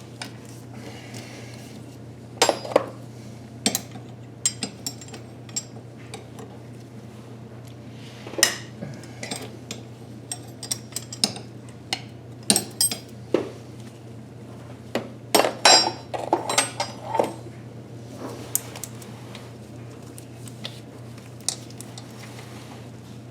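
Hand tools clinking and clicking against metal, a ratchet and socket working the lower intake manifold bolts, in irregular scattered bursts. A steady low hum runs underneath.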